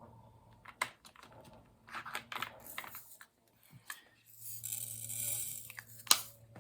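Small plastic clicks, taps and rattles as diamond-painting drills and tools are handled, with a hissy rustle about four and a half seconds in.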